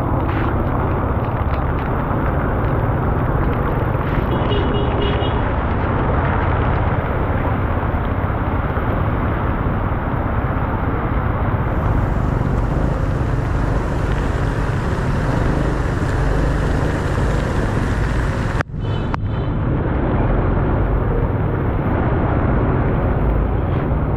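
Steady rush of wind and road noise on a helmet or bike-mounted camera microphone while riding a motorcycle in the rain, with a heavy low buffeting throughout. It cuts out for a split second about three quarters of the way through.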